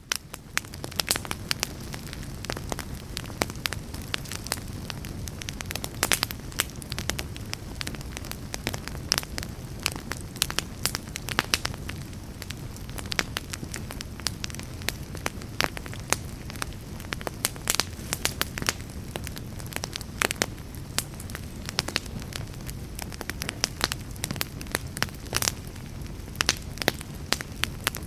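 Wood fire in a fireplace crackling, with a steady low rumble and many sharp, irregular pops and snaps.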